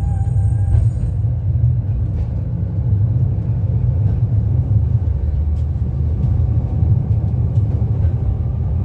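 Blackpool heritage tram running along the track with a steady, deep rumble.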